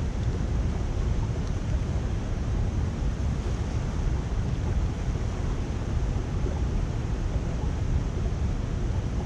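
Water rushing steadily through a culvert drain cleared of debris, a constant noise without breaks.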